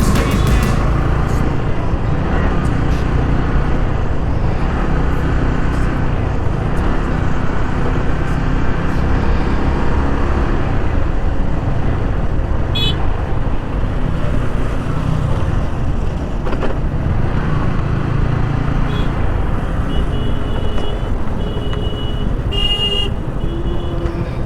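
Steady engine and wind rumble from riding a Yamaha R15 V3 motorcycle in road traffic, with vehicle horns beeping about halfway through and several times near the end.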